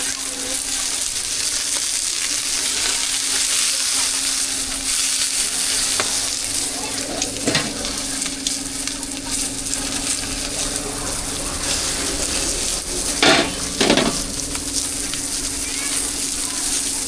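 Meat-filled cakes pan-frying in oil, sizzling steadily, with a steady low hum underneath. A few sharp knocks, the two loudest about thirteen and fourteen seconds in.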